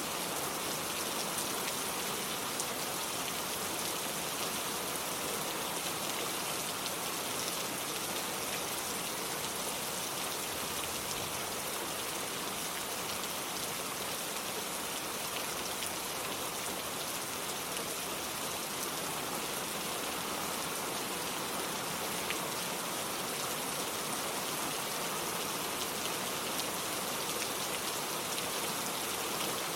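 Steady rain falling on hard surfaces: an even, unbroken hiss with a few separate drop ticks standing out now and then.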